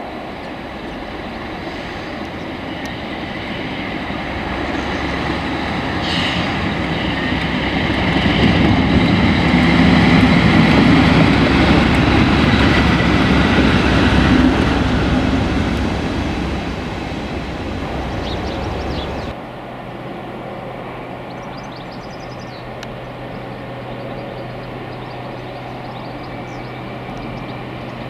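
A train passing, its rumble and wheel noise building to a peak about halfway through and then fading. About two-thirds of the way in the sound cuts off abruptly to a quieter background with a steady low hum.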